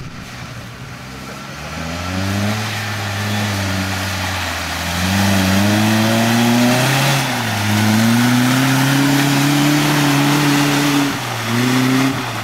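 A 4x4's engine revving hard under load as the vehicle ploughs through deep mud, its pitch climbing and falling several times, with short dips where the throttle eases about 7 and 11 seconds in.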